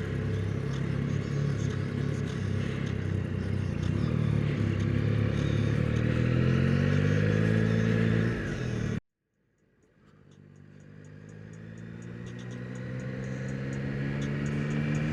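Yamaha R9 sport bike's three-cylinder engine running on the move, its pitch rising and falling with speed. The sound cuts off abruptly about nine seconds in and fades back in a second later.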